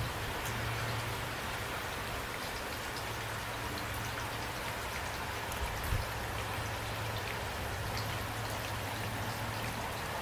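Steady rain falling, with individual drops ticking here and there over the even hiss, and a brief low thump about six seconds in.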